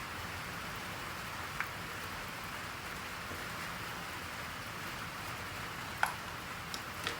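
Steady rain falling, an even hiss. A few short sharp taps cut through it: one about one and a half seconds in, the loudest about six seconds in, and two more near the end.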